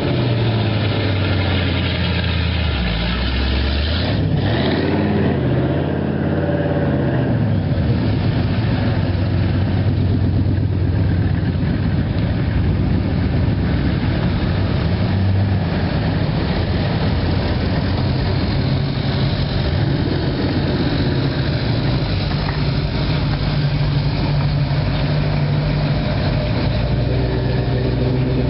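Classic cars' engines idling and pulling slowly past one after another, a steady low rumble with a few short revs that rise and fall.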